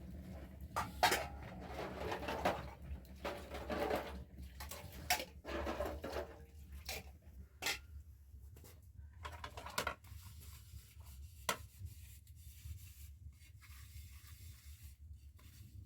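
Rustling and scattered light knocks and clicks of objects being handled, busier in the first half and sparser later, over a low steady hum.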